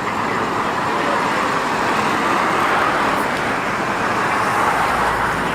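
Steady rush of road traffic noise from passing cars, swelling slightly in the middle.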